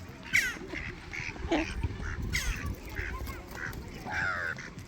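A flock of birds calling: many short squawks overlapping one after another, a couple of them sliding down in pitch.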